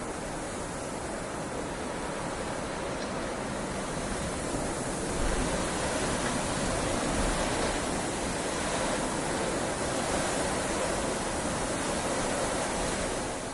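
Heavy rain falling steadily as an even hiss. It swells a little louder about five seconds in and eases just before the end.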